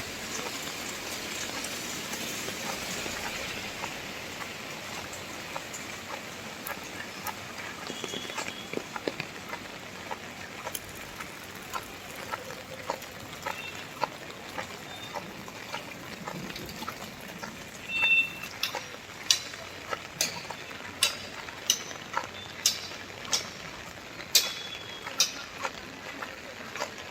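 Rain falling steadily. In the second half, large drops drip onto a hard surface in sharp taps at about one a second.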